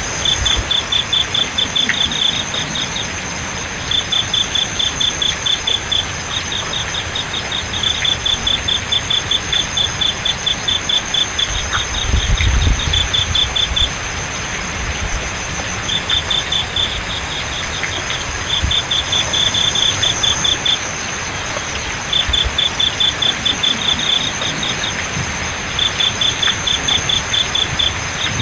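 Crickets chirping in trains of rapid pulses about two seconds long with short pauses, over a steady high insect trill, with a hiss of flowing water underneath.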